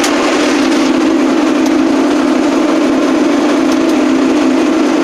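1980 Case 480D's diesel engine running steadily just after a cold start at about 0°F, with a strong, even drone that does not change.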